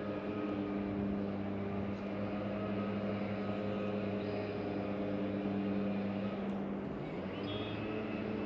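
Electric trolling motor on a kayak running with a steady hum, its pitch dipping briefly about seven seconds in.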